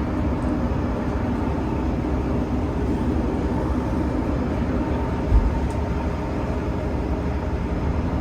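Class 172 diesel multiple unit running at speed, heard from inside the carriage: a steady underfloor diesel engine drone with wheel and rail rumble. There is a single low thump about five seconds in.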